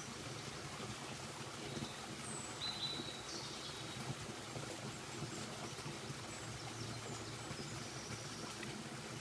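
Quiet outdoor woodland ambience: a steady hiss with a few short, high bird chirps about two to three seconds in and again near the end.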